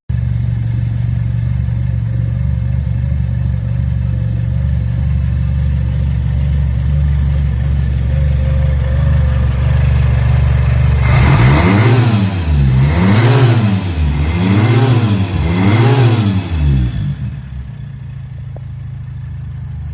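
1960 MGA 1600's four-cylinder engine idling, then revved four times in quick succession about halfway through, each rev rising and falling in pitch, before it settles back to idle.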